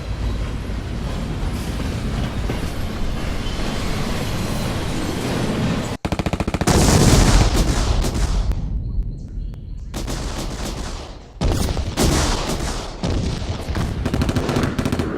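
A train's steady rumble, cut off suddenly about six seconds in, then rapid machine-gun fire in repeated bursts, loudest just after it starts and again in the last few seconds.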